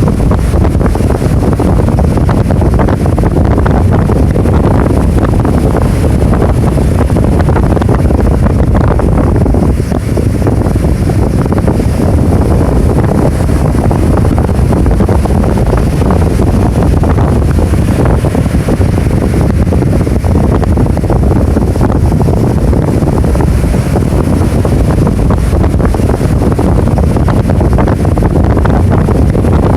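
Strong wind buffeting the microphone over heavy surf as typhoon-driven waves break, a loud unbroken noise heaviest at the low end.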